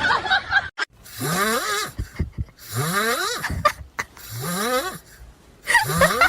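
A pet snoring in repeated breaths, about every second and a half. Each breath carries a whistling tone that rises in pitch.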